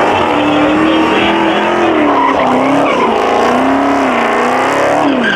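A muscle car's engine revving hard and held at high revs, its pitch sagging and climbing again several times, with tyres squealing under a burnout or donut.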